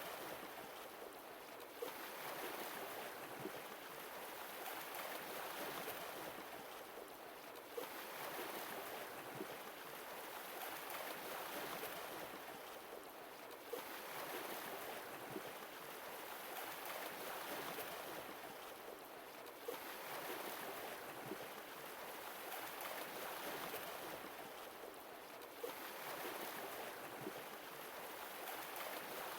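Sea waves washing ashore, each one swelling and falling away about every six seconds, with a few brief sharp splashes among them.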